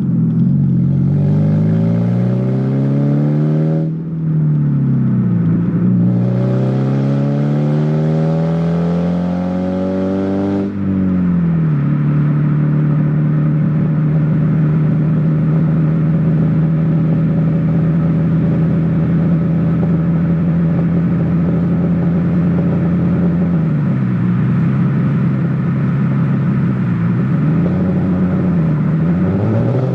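1993 Saturn SW2's 1.9-litre twin-cam four-cylinder running loud with only the exhaust manifold fitted, exhaust open at the manifold outlet. Its pitch climbs twice, falling off sharply about four and about eleven seconds in as if shifting up. It then holds a steady note before two short dips in pitch near the end.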